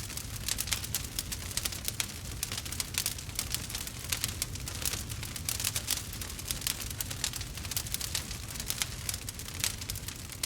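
Burning wood fire crackling and popping steadily, with many small sharp snaps over a low rumble.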